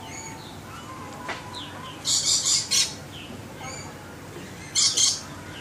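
A bird giving harsh, high screeching calls in two bursts, one about two seconds in and another near the end, with faint chirps between them.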